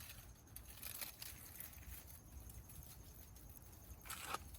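Faint rustling and light taps, with one louder brief rustle about four seconds in.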